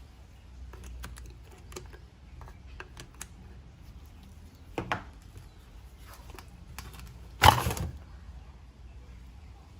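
Light clicks and clinks of tools and small parts being handled at a workbench, with a louder knock about five seconds in and a sharper clatter of parts about two and a half seconds later.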